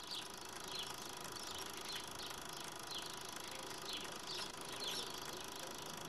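A small bird chirping repeatedly, short falling calls about once or twice a second, over a faint steady hiss.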